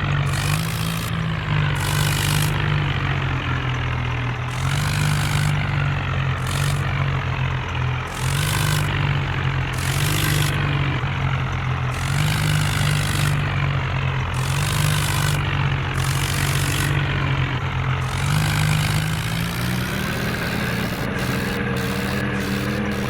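Tractor diesel engine running hard, its note held low and then rising again near the end, with a rushing noise that swells every second or two.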